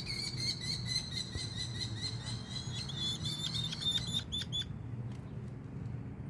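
Merlin calling: a fast run of short, high, sharp notes, several a second, that stops about four and a half seconds in.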